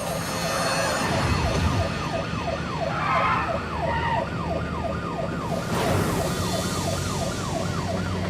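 Police car sirens in a fast yelp, a tone sweeping up and down about three times a second, over a low steady hum.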